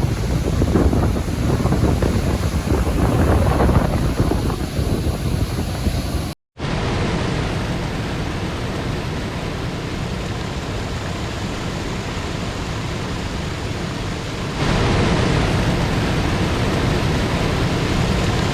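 Steady rush of a large waterfall, with wind buffeting the microphone for the first several seconds. The sound cuts out briefly about six seconds in, then carries on more evenly and grows a little louder near the end.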